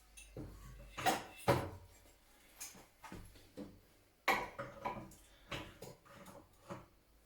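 Irregular clinks and knocks of metal tools and parts being handled and set down, several sharp ones in a row, the loudest about a second in and again just after.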